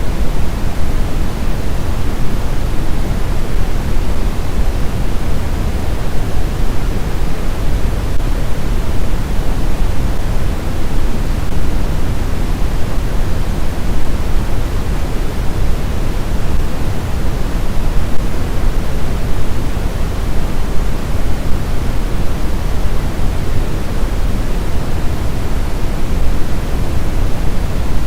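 Steady, unbroken sleep-aid noise, a deep even hiss weighted toward the low end, like pink noise, with no changes or events.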